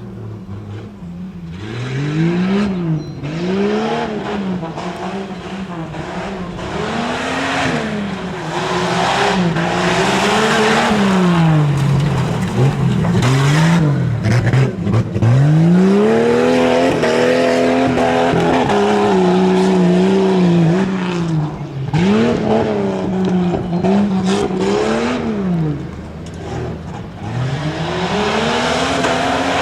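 Modified 4x4 tuff truck's engine revving hard, its pitch rising and falling over and over as the throttle is worked through the course, with bursts of rushing noise.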